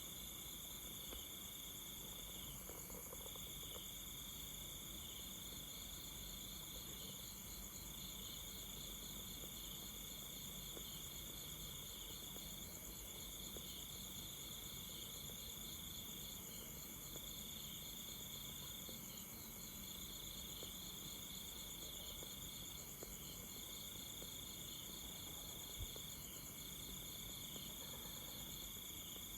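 Night insect chorus, crickets among them: a steady high-pitched trilling, with a lower trill running in stretches of a few seconds broken by short pauses.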